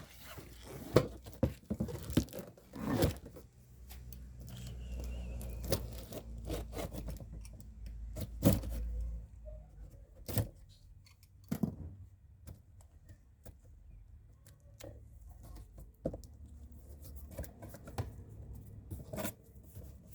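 A cardboard box being opened and handled by hand: cardboard tearing, scraping and rubbing, with scattered sharp knocks and clicks.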